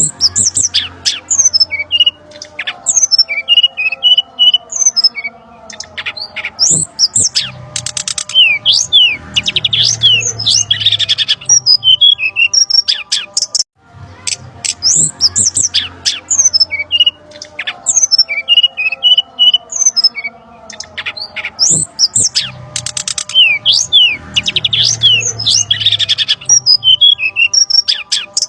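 Bird-lure recording for the brown-chested jungle flycatcher: a busy run of sharp chirps, squeaky calls and quick falling whistles of small birds, with a faint hum under it. It breaks off briefly about halfway through, and then the same passage repeats.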